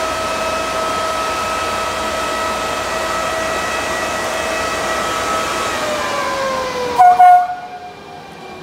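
Trenord regional train with an E464 electric locomotive running past close by: a steady rumble and whine with several tones, the tones falling in pitch about two thirds of the way through. About seven seconds in, a short, very loud blast is followed by a quieter rumble of the passing coaches.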